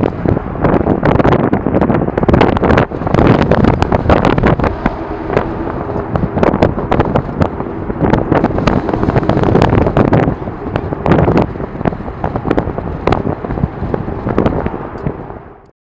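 Strong wind buffeting the camera's microphone: a loud, rumbling noise full of crackles and pops that cuts off abruptly near the end.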